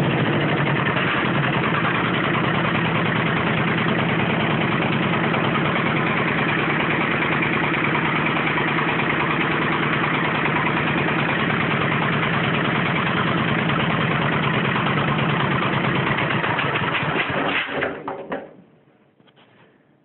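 D-21 two-cylinder air-cooled diesel in a TZ-4K-14 tractor running steadily, then shut off near the end and dying away within about a second.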